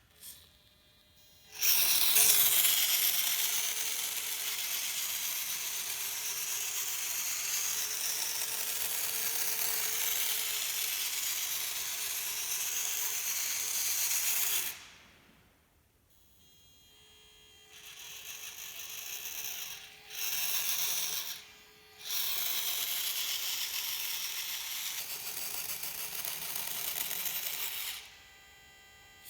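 Hobby Plus CR-24 micro RC crawler's electric motor and gear drivetrain whining as it drives: one long run of about thirteen seconds, then three shorter runs with brief stops between them.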